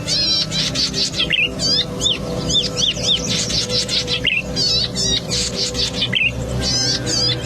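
Cici padi (zitting cisticola) singing: a quick, continuous run of high chirps, many rising and falling, mixed with buzzy trills, over a steady low hum.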